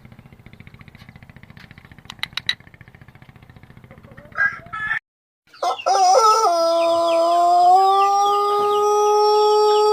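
Pelung rooster crowing: one long, drawn-out crow starting a little past halfway, held at a steady pitch with a couple of small steps down. Before it, a low steady pulsing hum with a few sharp clicks cuts off abruptly, and small birds chirp faintly behind the crow.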